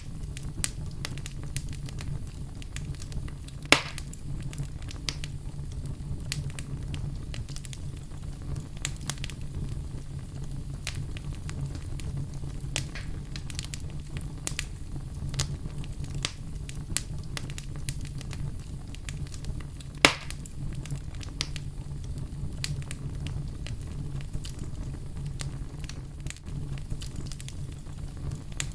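Wood fire burning in a fireplace: a steady low rumble of flames with frequent small crackles and two louder pops, one a few seconds in and one about two-thirds of the way through.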